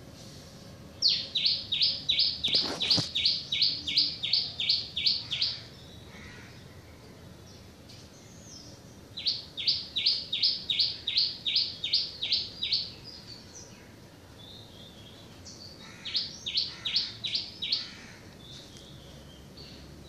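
A songbird singing three bouts of loud, rapidly repeated sharp notes, each note dropping in pitch, about three notes a second; the bouts last about four, three and two seconds, with a steady faint hiss between them.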